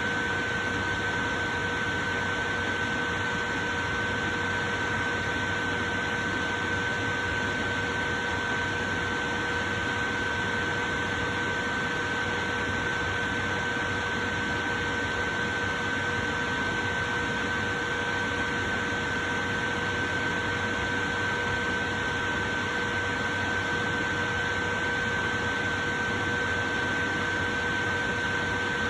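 Portable electric fan running steadily: an even rush of air with a steady hum of three tones over it, the highest the loudest.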